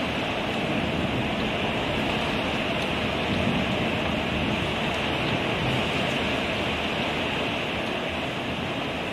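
Heavy downpour of torrential rain, a steady, even rush that swells slightly in the middle.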